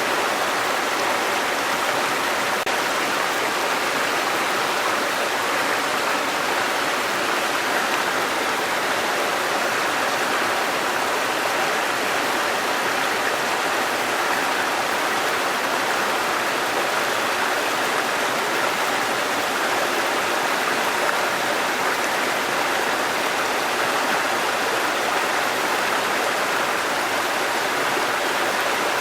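Waterfall, a steady rush of falling and running water.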